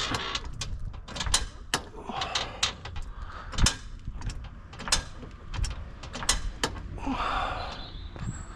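Irregular sharp metallic clicks and clanks, at times several a second, from tools and metal parts being handled during work on a car, with a longer scraping sound about seven seconds in.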